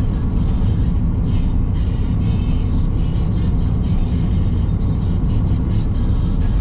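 Steady low road and engine rumble inside a moving car's cabin, with music from the car radio playing underneath.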